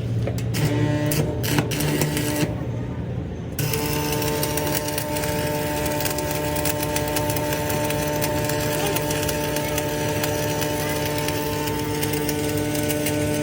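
A few knocks over a low hum. Then, about three and a half seconds in, a workshop machine starts and runs steadily, a whine with a hissing crackle, until it cuts off at the very end.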